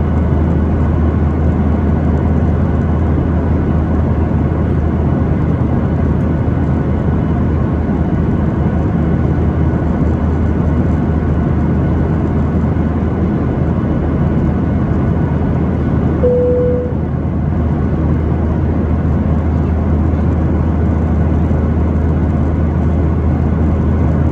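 Steady cabin noise of a Boeing 737-800 in flight, engine and airflow rumble with a low hum heard from inside the cabin. About sixteen seconds in, a single cabin chime sounds briefly.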